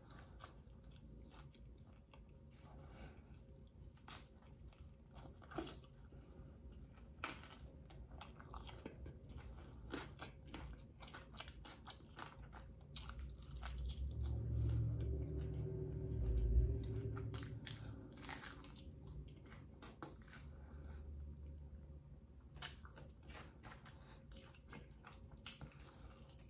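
Close-miked eating of sauced chicken wings: biting, wet crunching and mouth clicks in scattered bursts, with a low hum for a few seconds past the middle.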